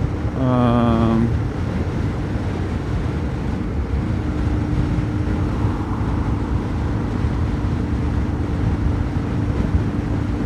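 Yamaha XT660R's single-cylinder engine running at road speed under heavy wind noise on the helmet, as heard from a microphone inside the rider's helmet. A steady engine note holds from about four seconds in. Near the start there is a short vocal sound from the rider.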